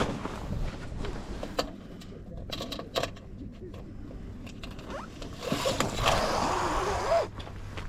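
Handling noises from rigging a Gull sailing dinghy: scattered clicks and knocks, then a louder stretch of rustling about two-thirds of the way in, ending with a short squeak.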